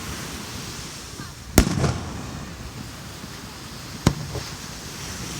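Fireworks display: two aerial shells bursting with loud booms about two and a half seconds apart, each followed by a few smaller crackles.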